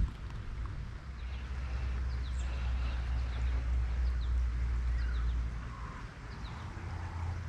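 Outdoor creek ambience: a hiss of flowing water under a low rumble, with several brief, high bird chirps now and then.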